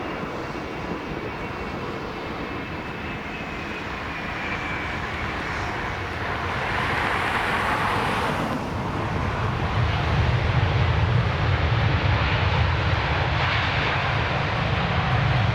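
Jet airliner engines: a thin whine sliding down in pitch in the first few seconds, then the sound growing louder with a deep low rumble from about ten seconds in.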